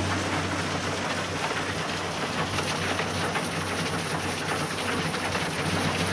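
Heavy forestry machinery running: a steady low engine hum under a dense hissing, crackling noise, the hum weaker in the middle.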